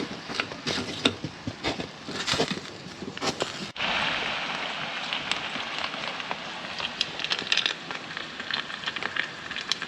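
Crackling and popping from cooking on a wood stove. About four seconds in there is an abrupt cut to a steadier hiss with scattered pops.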